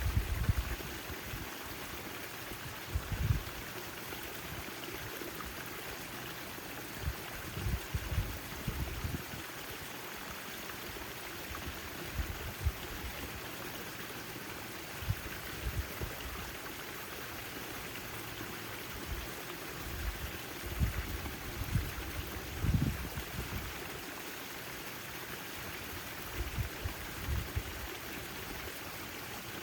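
Backyard garden fountain running: a steady splashing, trickling water sound, with short low rumbles every few seconds.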